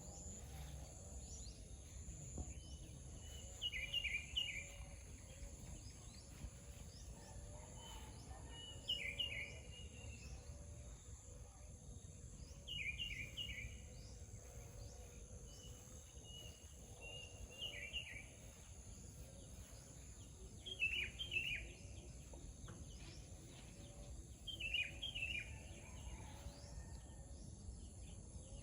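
A songbird repeating one short song phrase about every four seconds: a thin lead note, then a quick run of falling notes. A steady high-pitched drone runs underneath.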